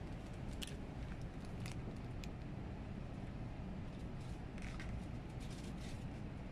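Steady low rumble of a Kodama Shinkansen train running, heard inside the passenger cabin, with a few faint crinkles and ticks of bento packaging being handled.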